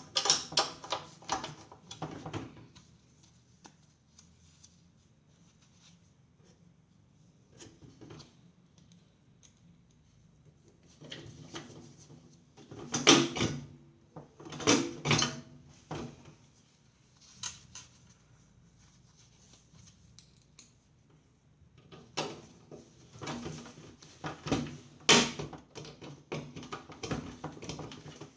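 Clicks, knocks and clatter of hard objects being handled, in three clusters separated by quiet spells.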